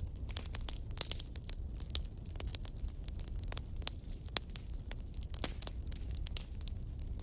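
Fire crackling: a dense run of irregular sharp pops and snaps over a steady low rumble.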